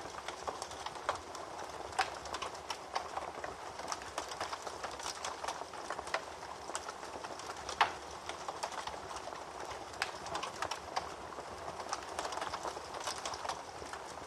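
Wood fire crackling in a fireplace: a steady hiss of small crackles with a few louder sharp pops, the loudest about eight seconds in.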